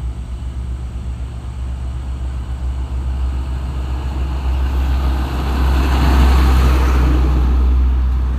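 A truck passing close by: a steady low engine hum with the rush of engine and tyres swelling to its loudest about six to seven seconds in, then easing off slightly.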